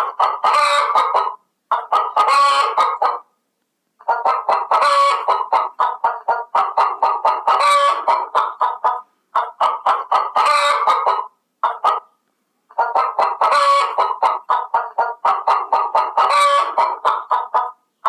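Chickens clucking in rapid runs, with a louder call about every three seconds. The stretches of calling break off sharply into short silences several times.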